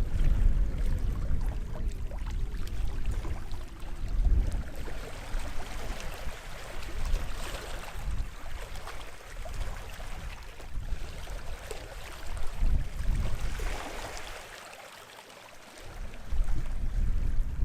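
Small sea waves washing onto the shore, with two swells of surf hiss, about halfway through and again near the end. Wind rumbles on the microphone throughout, dropping away for a moment near the end before returning.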